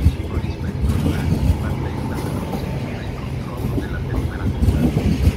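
Frecciarossa ETR500 high-speed electric train pulling out of the station, its carriages rolling slowly past with a steady low rumble of wheels on rails and many small knocks.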